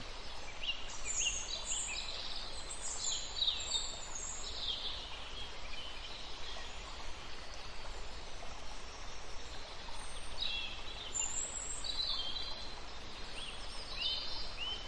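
Birds chirping and calling in quick bursts of short, high, falling notes over a steady background hiss. The calls come in the first few seconds and again from about ten seconds in.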